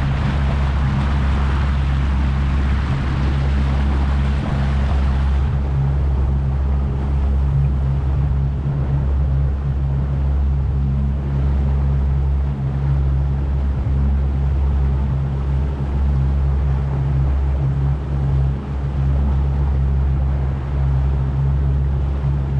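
Boat motor running at a steady speed, a constant low drone, with rushing water and wind noise that eases off about five seconds in.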